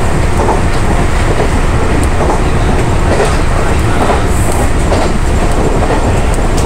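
Meitetsu limited express electric train running at speed, heard from inside the front car: a steady low rumble of wheels on the rails, with faint clacks about once a second from the wheels passing over rail joints.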